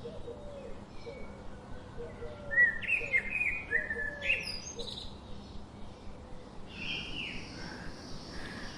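Wild birds calling in forest: a low note repeating softly, then a run of short higher chirps and falling calls, over a faint steady background hiss.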